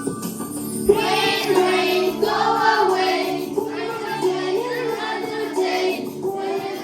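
Children's song: child voices sing a simple nursery-rhyme melody over an instrumental backing, coming in about a second in after a few instrumental notes.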